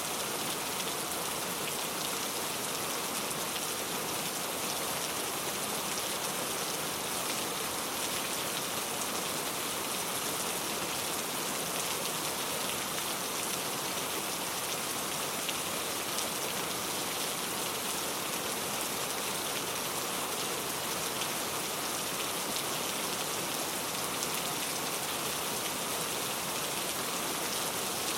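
Rain falling steadily: an even, mostly high-pitched hiss of countless drops, with no thunder.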